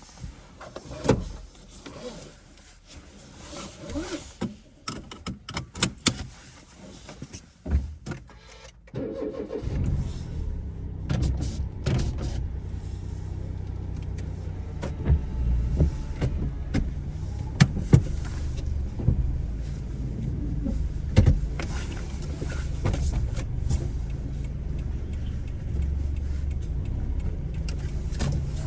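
Car interior noises: scattered clicks and knocks for about nine seconds, then the car's engine starts and settles into a steady low running rumble, with occasional sharp clicks over it.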